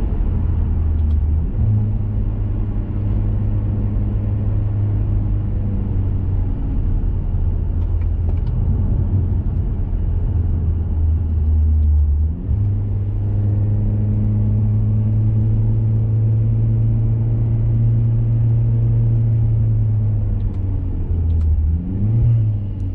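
2021 Mazda 3 Turbo hatchback's turbocharged 2.5-litre four-cylinder and CorkSport cat-back exhaust, heard from inside the car while driving. The exhaust drones steadily, and its pitch steps up about a second and a half in, sinks for several seconds, then steps up again about halfway through, as speed and gear change.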